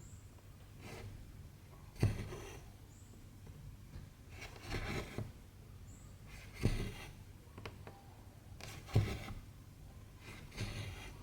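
Cotton embroidery thread being drawn through 14-count cross-stitch fabric. Each stitch is a sharp tap of the needle followed by a short rustling swish of the thread, five times about two seconds apart.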